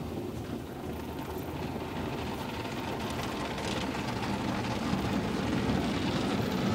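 Automatic brush car wash machinery running steadily, a low rumble with hiss heard from inside the car, slowly growing louder.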